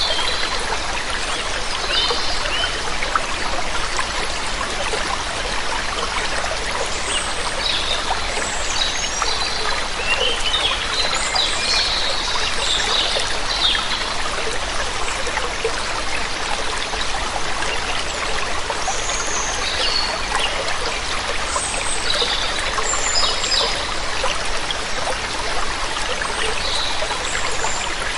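Steady rush of flowing, falling water, with small birds chirping on and off above it, most often around the middle.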